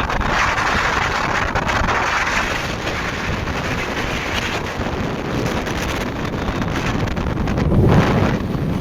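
Steady wind rush on the microphone of a moving motorcycle, with road and traffic noise underneath. There is a stronger swell about eight seconds in.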